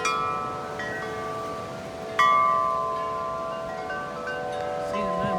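Metal-tube wind chimes swinging in strong wind gusts, the tubes struck again and again so that several pitches ring on and overlap; the loudest strike comes just after two seconds.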